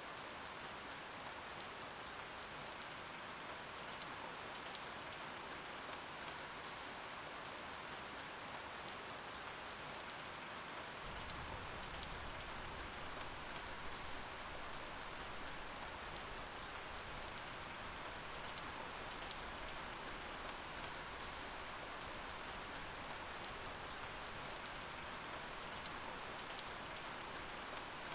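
Steady rain falling, with scattered individual drops ticking through it. A low rumble joins underneath about eleven seconds in and continues.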